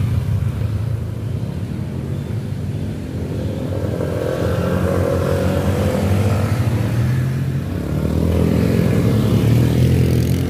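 Motorcycle engine pulling under heavy throttle up a steep climb, its pitch shifting as the throttle is worked and growing louder near the end.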